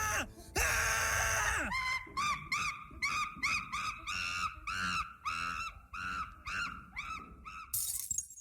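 A bird giving a rapid series of short, honking calls, about three a second, after a couple of seconds of gliding tones; the calls stop abruptly near the end.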